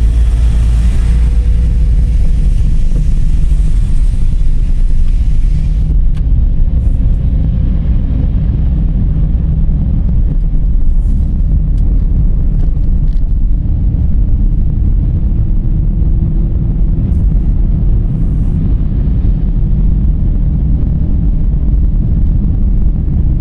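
Steady, loud low rumble of a car driving, road and wind noise with no engine note standing out. A high hiss above it cuts off suddenly about six seconds in, and a few brief hisses come later.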